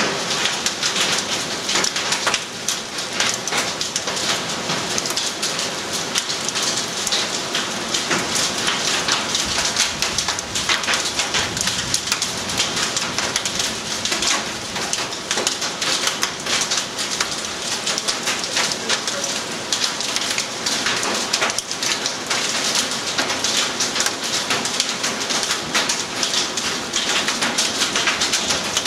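Steady rain falling hard in a dense patter of drops.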